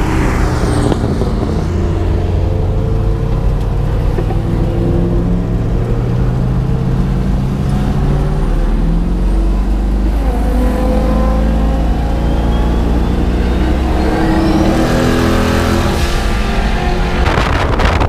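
Twin-turbo 5.3 L LS V8 of a 1974 Chevrolet Nova running under load, its engine note slowly climbing and then dropping. A high whistle rises in pitch about two-thirds of the way through.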